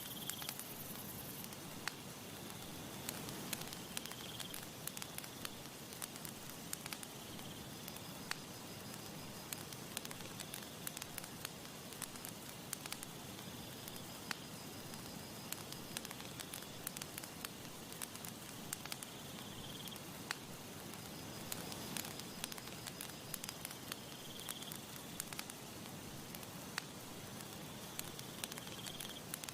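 Campfire crackling, with frequent irregular sharp pops and snaps over a soft, steady hiss.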